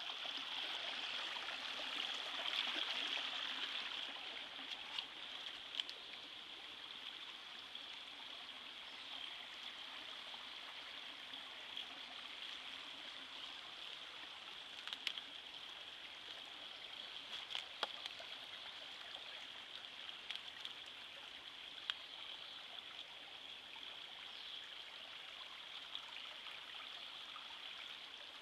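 A small stream flowing and trickling over rocks, a steady rush that is a little louder in the first few seconds, with a few faint clicks scattered through it.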